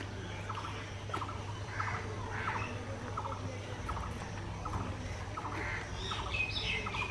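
Birds chirping: a short chirp repeated evenly, roughly three every two seconds, with a louder run of higher chirps near the end, over a steady low hum.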